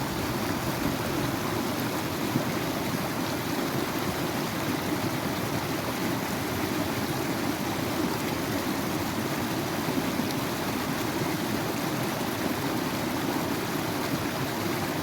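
Flowing water in a stream, a steady rushing with no break or change.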